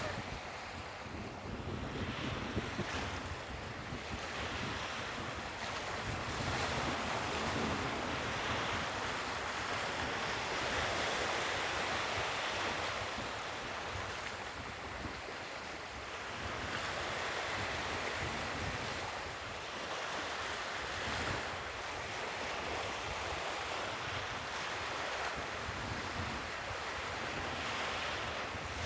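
Sea waves washing onto the shore, the surf swelling and easing every several seconds, with wind buffeting the microphone.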